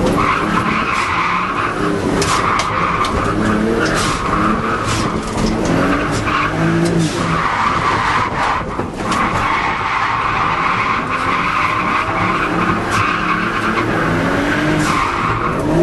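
Nissan Sil80 drift car's RB25DET turbocharged straight-six revving up and down as it drifts, with the tyres squealing through the slides. The squeal drops out for about a second midway, then picks up again.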